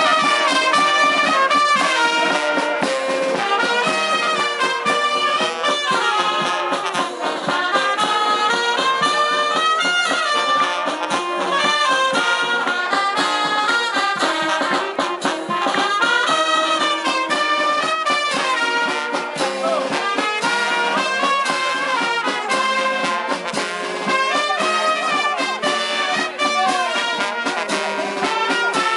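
Brass band music playing continuously, several horns carrying a melody.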